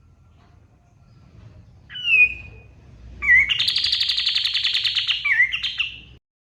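Kapas tembak songbird singing: one short falling whistled note, then a long, rapid trilling phrase with quick falling notes that breaks off suddenly near the end.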